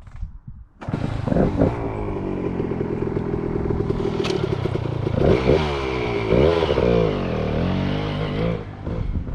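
Dirt bike engine starting about a second in, running steadily, then revving up and down in pitch.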